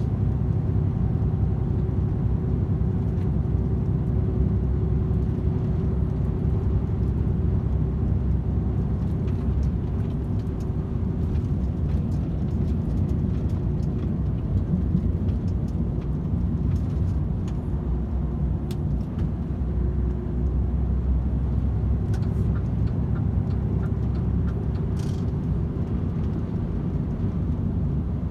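DAF XF 510 truck cruising on a motorway: a steady low rumble of its six-cylinder diesel, tyres and road, with a faint constant hum from the drivetrain.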